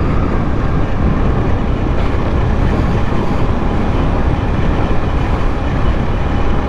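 Motorcycle riding along, its engine and road noise buried under steady wind rush over the microphone.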